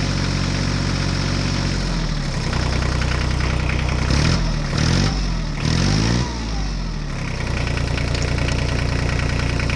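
Vehicle engine running steadily, revved up and down several times around the middle before settling back to a steady run.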